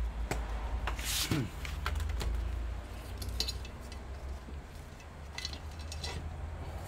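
Light clicks and clinks from a laptop and small tools being handled during disassembly, with a short scraping swish about a second in, over a steady low hum.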